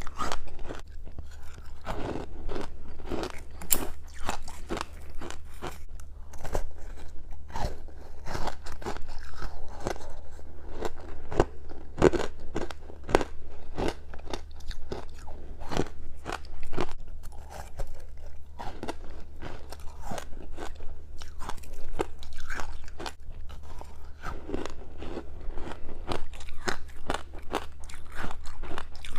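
A person biting and chewing juice-soaked freezer frost close to the microphone: crisp, irregular crunches, several a second. A steady low hum runs underneath.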